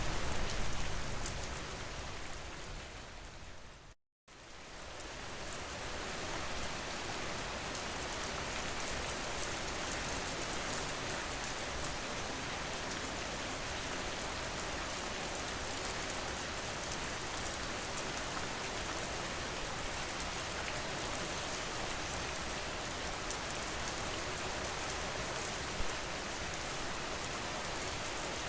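Recorded rain falling steadily. About four seconds in it fades out to a moment of dead silence, then fades back in and runs on evenly, as one rain track loops into the next.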